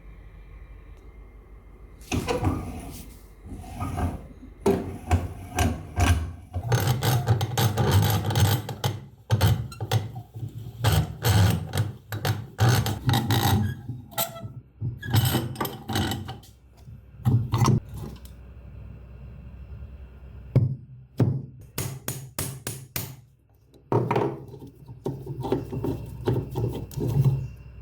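Hand-tool work on a rusted, seized metal bench vise: bursts of repeated knocking and scraping strokes, stopping now and then for a second or two.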